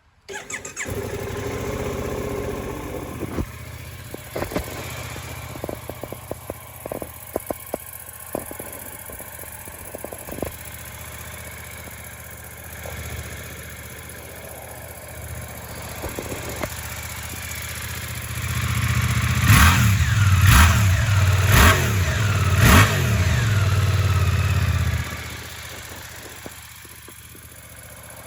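Suzuki GSX-8S 776 cc parallel-twin engine starting from cold and settling into a steady idle, then revved in four quick blips near the end before the engine note cuts off.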